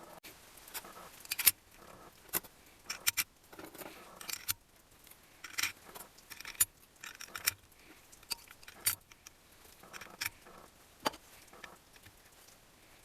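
Metal engine parts and hand tools clinking and clicking during engine assembly, in scattered, irregular sharp taps.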